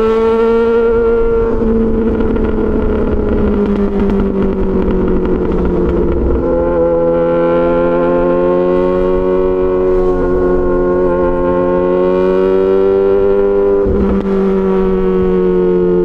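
Yamaha XJ6 S 600 cc inline-four running through an SC-Project aftermarket exhaust at cruising speed. The engine note sags and swells gently, with brief breaks about six seconds in and near the end.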